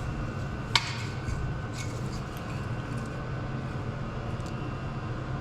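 A sharp metallic clink about a second in and a few fainter clicks later as small brake parts are handled, over a steady low hum.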